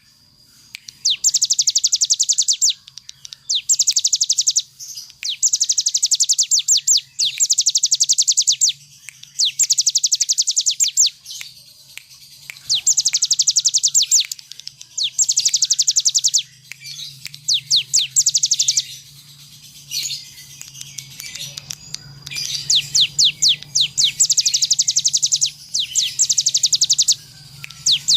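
Ciblek gunung singing in its 'ngebren' style: very fast, high-pitched trills in bursts of a second or two, repeated again and again with short pauses between them.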